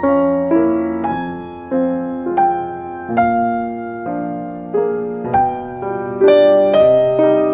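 Gentle, slow solo piano music: single notes and chords struck about once or twice a second, each ringing on and fading before the next.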